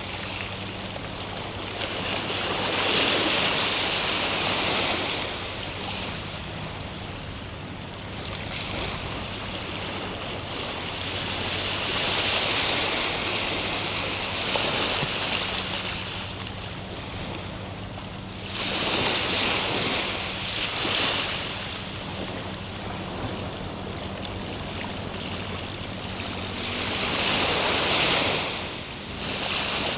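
Ocean surf: waves breaking and washing up the shore in four long swells of rushing noise, one about every seven to eight seconds, over a steady wash of water.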